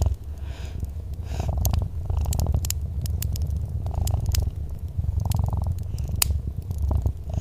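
Domestic cat purring close up: a steady low rumble that swells with each breath, about every second and a half. Sharp pops and crackles from a wood fire are scattered through it.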